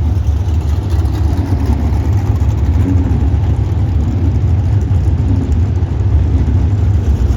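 A car engine running steadily with a loud, even low rumble.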